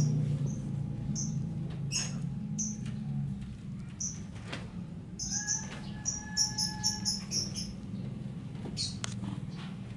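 Short high-pitched chirps of small birds, repeated, with a quick run of them about halfway through, over a steady low hum.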